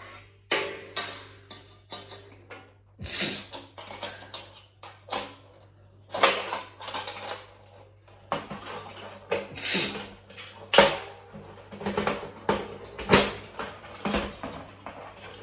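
Thin sheet-metal parts of a folding fire pit clinking and clanking as they are handled and fitted together, a string of irregular sharp metallic knocks, some with a short ring.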